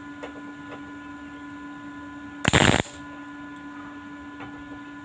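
Steady electrical hum, then one short burst of welding arc a little past halfway, lasting under half a second: a spot weld on a stainless steel tank.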